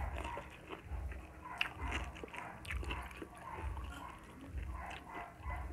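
Close-miked chewing and biting of two people eating spicy pork and rice by hand, with wet mouth clicks and smacks and a soft low thud about once a second.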